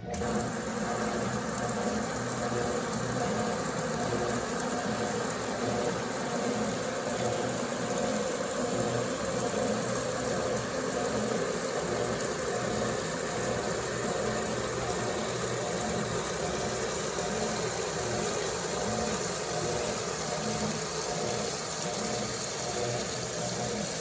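Brastemp Eggo 1 kg mini washing machine running, its motor humming steadily under water splashing inside the tub. It starts suddenly and holds an even level.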